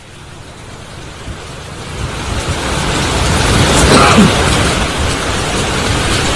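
Heavy rain with rumbling thunder, swelling in over the first few seconds and loudest about four seconds in.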